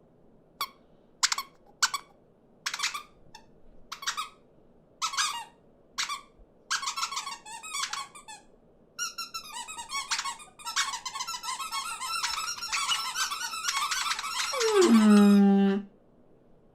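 Cartoon small birds peeping in short squeaky chirps, a few at a time at first, then crowding into continuous overlapping squabbling chatter. Near the end a bird call slides down in pitch to a low held note, and the chatter stops.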